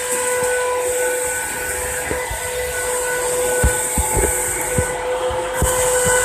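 Homemade CNC engraving machine running as it cuts letters into granite: a steady hiss and whine from the spindle with a few light knocks. The hiss cuts out briefly about five seconds in, then resumes.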